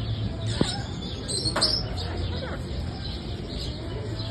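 Aviary birds, parrots among them, giving short chirps and calls, the clearest about half a second and a second and a half in, over a murmur of background voices.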